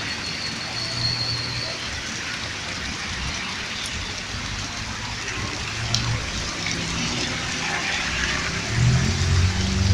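Steady rain falling, a dense even hiss. A low hum swells louder near the end.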